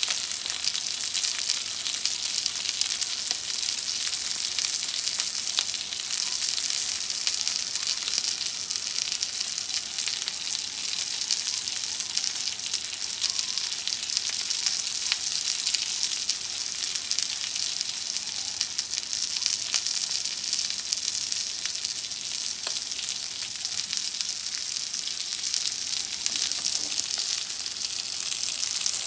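Frozen gyoza frying in a nonstick frying pan with a steady sizzle and fine crackle: the water from the frozen-on oil, water and starch coating has cooked off, and the batter is crisping into a brown lattice under the dumplings.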